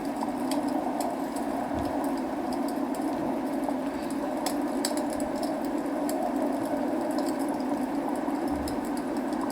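Wood fire crackling, with scattered sharp pops and clicks, over a steady rush of rain. Two soft low thumps come about two seconds in and near the end.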